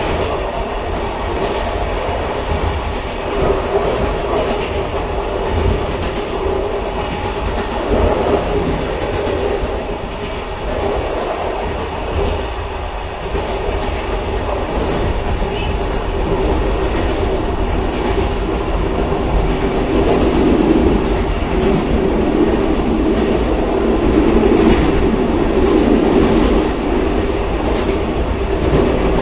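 A railcar running along the track, making a steady rumble with a few faint clacks of the wheels over the rails. It grows slightly louder in the second half.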